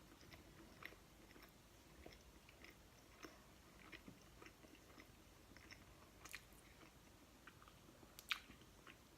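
Faint close-up chewing of a mouthful of pizza: soft, irregular wet mouth clicks, with a few slightly sharper ones about six and eight seconds in.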